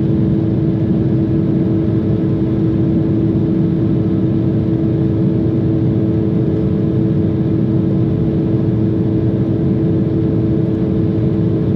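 Steady airliner cabin noise inside an Embraer E-Jet in flight: an even rush of engine and airflow with two steady hums held at constant pitch.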